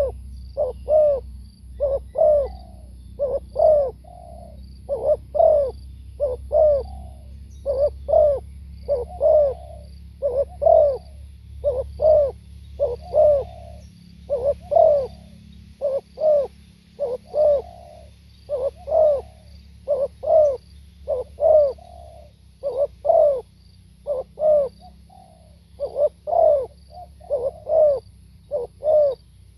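Spotted dove cooing over and over: a steady run of short, arched coo notes, about one or two every second.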